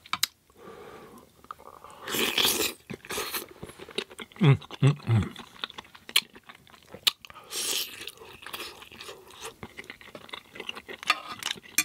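Close-miked chewing of soft pasta with vegan sausage in tomato sauce: wet mouth sounds, smacks and clicks in irregular bursts. A few short low hums fall in pitch about four to five seconds in.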